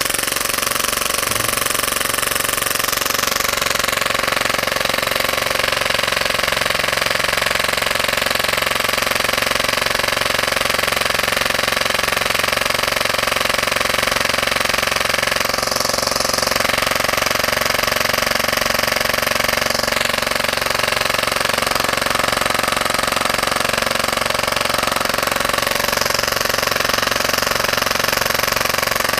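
Full-auto Tokyo Marui Hi-Capa airsoft pistol, rated at 30 rounds per second with a 3D-printed slide, dry-firing on an air tank with no magazine or BBs: its slide cycles at a rapid rate, continuously and without a pause.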